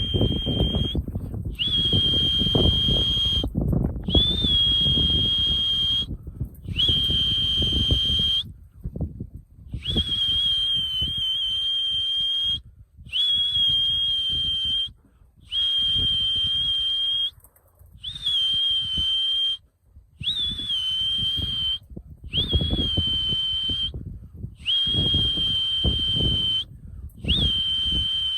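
Long whistle blasts repeated about a dozen times, each a steady high note opening with a quick upward flick, blown to call racing pigeons in to the loft for feed. A low rumbling noise comes and goes underneath.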